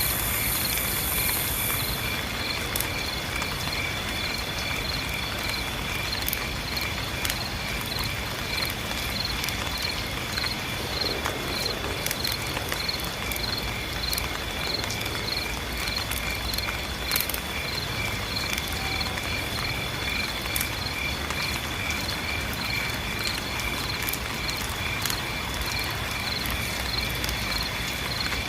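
Insect chorus, crickets by their sound: a steady high-pitched trill with a rapid, evenly pulsing chirp layered over it, above a low even rumble and scattered faint ticks.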